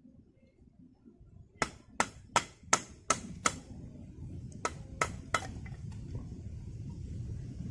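A series of sharp knocks: six in quick succession about every 0.4 seconds, then three more after a short pause. A low rushing noise rises behind them.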